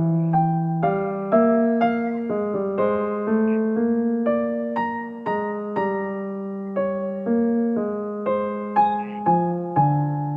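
Soft background piano music: gentle single notes struck about twice a second, each fading before the next.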